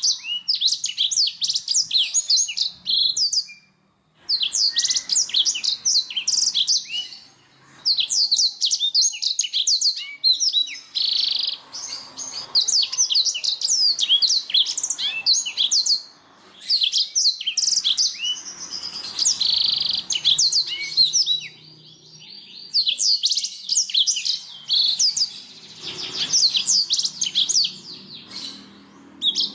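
Canary singing: long phrases of rapid, high trills and chirps, broken by short pauses between phrases.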